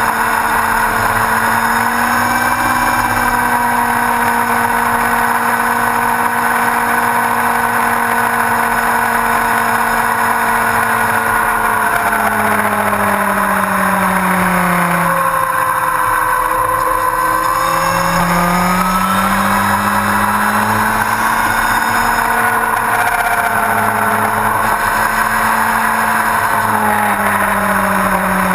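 Yamaha R1's inline-four engine running under way. The revs hold steady, fall away about halfway through, then climb again a few seconds later, with another dip and rise near the end.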